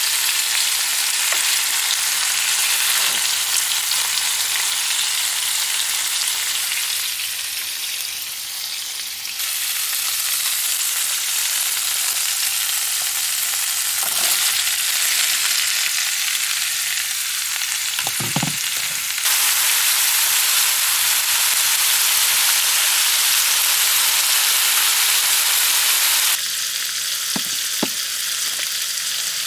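Fajitas sizzling in an oil-slicked skillet, a steady frying hiss that abruptly gets louder or softer several times, with a few light knocks against the pan.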